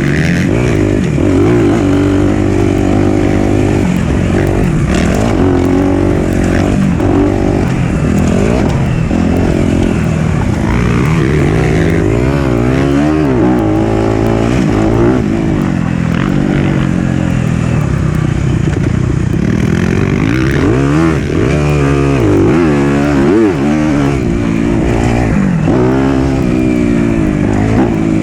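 Four-stroke single-cylinder dirt bike engine being ridden on a trail, its pitch rising and falling over and over as the throttle is opened and rolled off through the ride.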